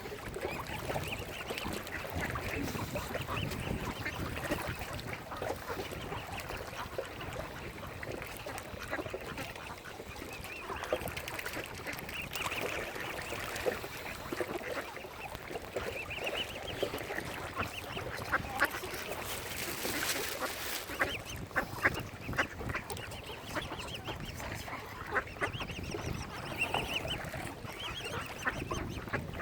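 Waterfowl calling: a flock keeps up short honking calls throughout, with scattered sharp clicks, busiest about two-thirds of the way through.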